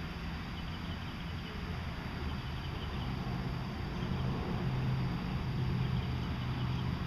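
Steady low hum of an engine or motor running, its pitch shifting and getting slightly louder about halfway through, with faint high chirps in the first half.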